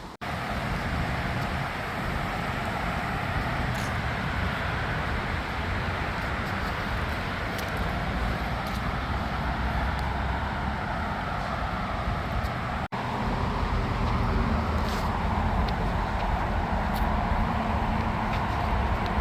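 Steady outdoor background rumble, a continuous noisy roar with no distinct events, broken off for an instant twice: about a quarter second in and about thirteen seconds in.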